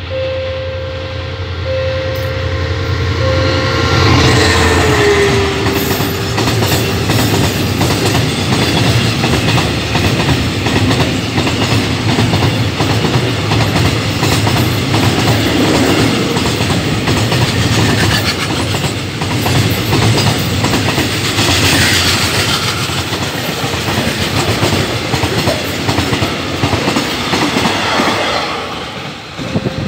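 Oil tank-wagon freight train hauled by a CSR Qishuyan diesel-electric locomotive passing close by, its wheels clattering steadily over the track for most of the stretch. A horn-like tone drops in pitch as the locomotive goes by, about four to seven seconds in. A level-crossing warning tone sounds on and off at the start and again at the end.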